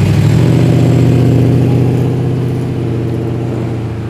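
Holden Statesman's engine running at low, steady revs as the car drives past. It is loudest in the first second or two, then fades away.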